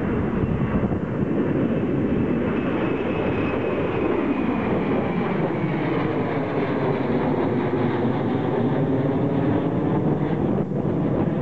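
Embraer ERJ regional jet's twin turbofan engines at takeoff power: a steady roar with a high whine that slowly falls in pitch as the jet goes by.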